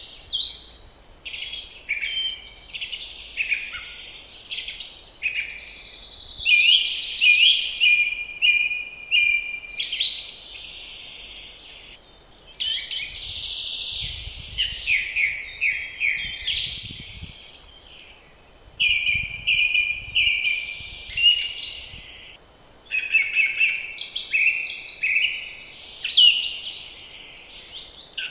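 Several songbirds singing in spring, overlapping phrases of trills and chirps one after another, with a faint low wind rumble in the middle.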